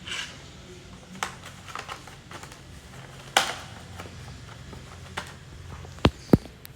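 Art supplies being handled and set in place by hand: scattered light taps and clicks, two brief rustles, and two sharp clicks close together near the end.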